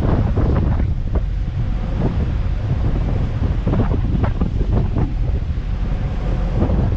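Strong wind buffeting the microphone aboard a boat under way at sea, a heavy low rumble with irregular gusts.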